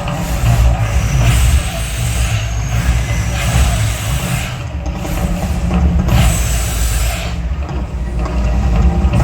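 Mirage volcano show erupting: a loud, deep rumble that holds steady, with three hissing whooshes over it a couple of seconds apart.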